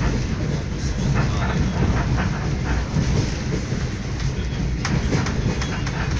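Passenger train running at speed, heard from inside the carriage: a steady low rumble with a few sharp clicks from the wheels.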